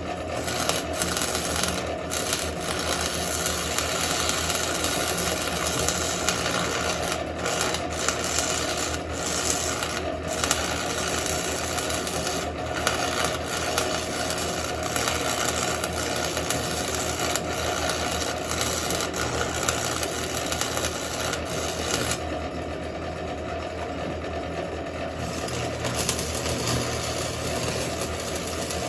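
Stick welder arc crackling and sizzling steadily as a flux-coated rod lays a weld on steel, with a few brief breaks in the arc and a quieter stretch about three-quarters of the way through. A steady low hum runs underneath.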